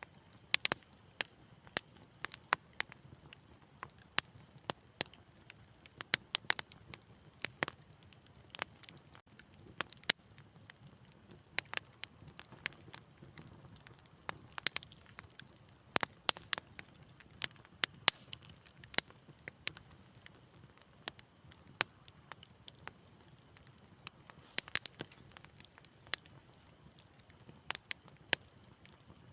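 Wood fire crackling: irregular sharp pops and snaps, several a second at times, over a faint low hiss.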